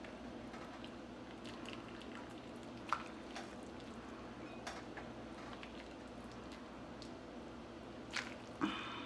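Chicken soup being ladled into a serving bowl: faint liquid pouring and a few clinks of the utensil against pot and bowl, the last one, near the end, ringing briefly. A steady low hum runs underneath.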